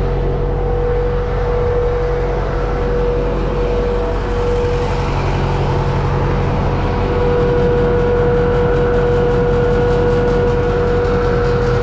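Universal U650 tractor's four-cylinder diesel engine running steadily, with a steady high whine over its drone.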